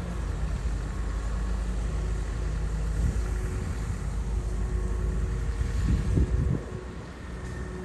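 Komatsu bulldozer's diesel engine running as it pushes soil, a steady low rumble that swells briefly about six seconds in and then drops to a quieter level near the end.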